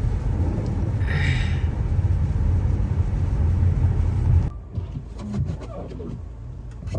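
A car driving, with a loud, steady low rumble of engine and road noise; it cuts off suddenly about four and a half seconds in, leaving much quieter sound.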